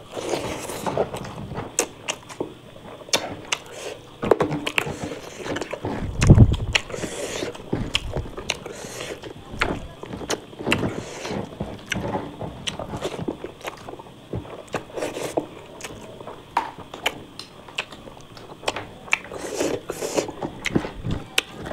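Close-miked eating sounds: a person biting and chewing food, with irregular wet clicks and smacks, and a low thump about six seconds in.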